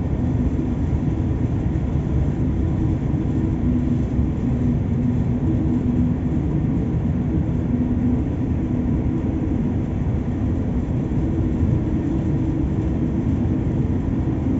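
Steady low rumble of a ship's machinery at sea, with a constant droning hum.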